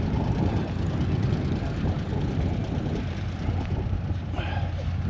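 A car engine idling: a steady low rumble with a constant hum.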